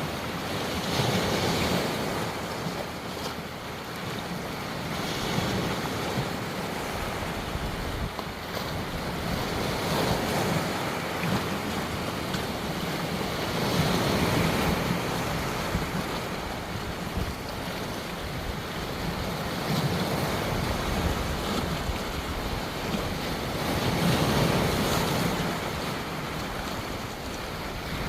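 Ocean waves breaking and washing in, swelling and easing every four to five seconds, with wind on the microphone.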